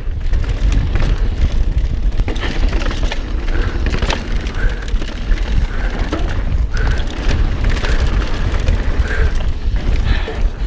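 Mountain bike riding fast down a rough dirt trail: heavy wind and tyre rumble on the bike-mounted camera's microphone, with frequent clatters and knocks as the bike hits rocks and bumps, and short high squeaks now and then.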